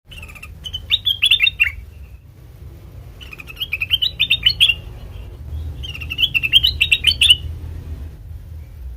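A kutilang emas (a bulbul) singing three bursts of quick, bubbling chirped notes, each a little over a second long and a couple of seconds apart, over a steady low hum. It is a song recording used as a lure and tutor call for catching and training songbirds.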